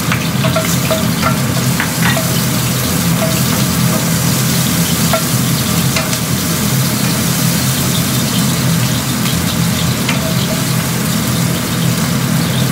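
Garlic and ginger sizzling in hot oil in a frying pan, stirred with a wooden spatula that taps and scrapes the pan now and then, over a steady low hum.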